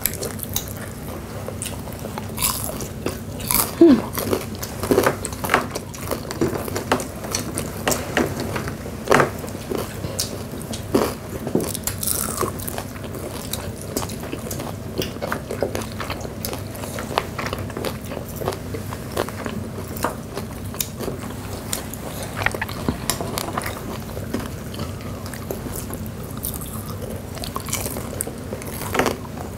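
Close-up crunching and chewing of deep-fried chicken gizzards in thin, crisp batter: irregular crackly bites and chews.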